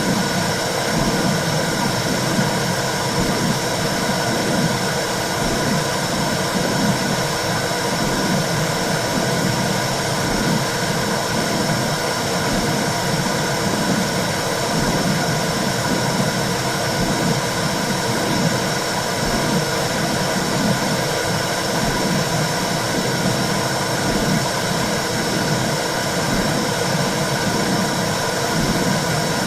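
Womb sound for soothing a baby: a steady rushing noise with a rhythmic whooshing pulse about once a second, like a heartbeat heard from inside the body.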